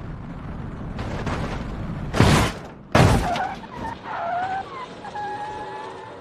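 Car crash: a car running, then two loud impacts about two and three seconds in, followed by a wavering squeal that fades near the end.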